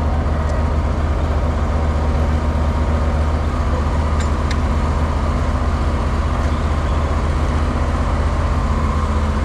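Mower engine running steadily at a constant speed, an even low hum with no change in pitch.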